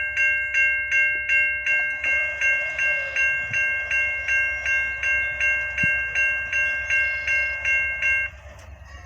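Railroad grade-crossing bell ringing in a steady, even rhythm of about two and a half strikes a second, over the low rumble of a passing train. The bell stops abruptly near the end.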